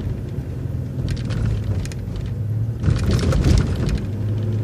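City transit bus running steadily, heard from on board, with a burst of rattling and clatter about three seconds in as it rolls over railroad tracks.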